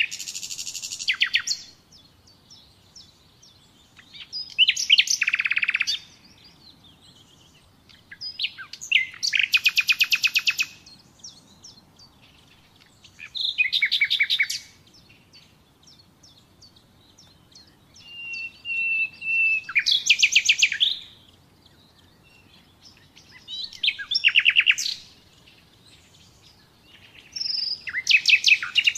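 Common nightingale singing: seven short phrases of rapid repeated notes and trills, spaced a few seconds apart. One phrase, a little past the middle, opens with a long steady whistle before breaking into a fast trill.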